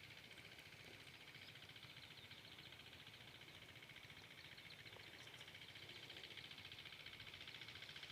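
Faint, steady, rapid chugging of a small single-cylinder 4 HP diesel irrigation pump engine running at constant speed.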